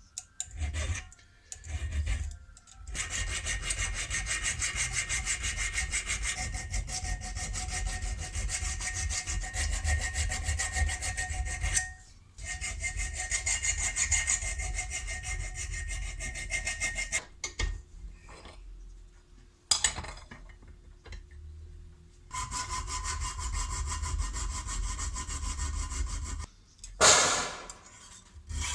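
A steel spanner being abraded: a rasping, rubbing sound in long runs with short pauses, with a loud swell near the end.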